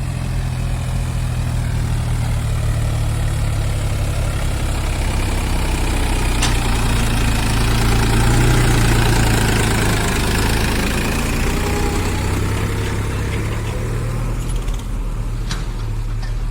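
Diesel engine of heavy farm or earthmoving machinery running steadily, growing a little louder about halfway through, with a couple of sharp knocks, one of them near the end.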